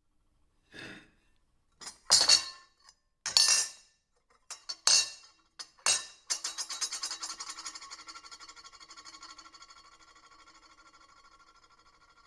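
Silverware clinking and clattering on a plate: several separate sharp clinks, then a fast rattle with a ringing tone that dies away over several seconds.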